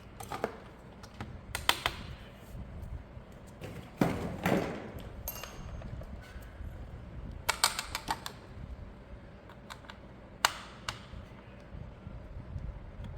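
Hands handling plastic toy parts and packaging: scattered sharp plastic clicks and taps in small clusters, with a short crinkling rustle near the middle.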